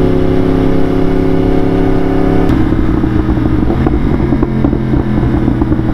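2018 Yamaha R1's crossplane inline-four engine, fitted with an Austin Racing exhaust, running steadily under way. The engine note eases slightly, then changes abruptly about two and a half seconds in.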